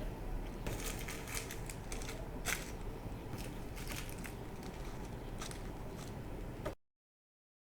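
Bead packaging being unpacked and handled: a quick, irregular run of small crinkles and clicks. The sound cuts off abruptly about a second before the end.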